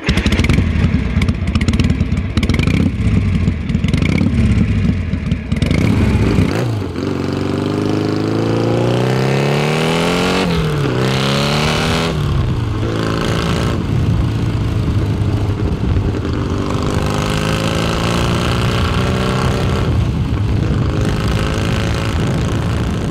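Vintage motorcycle engine running with an uneven low beat, then accelerating: its pitch rises, drops sharply, rises again and drops, as if shifting up through the gears, then it holds a steady speed.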